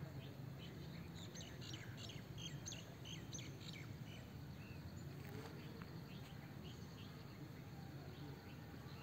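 Small birds chirping, with many quick short calls in clusters, over a steady low background rumble.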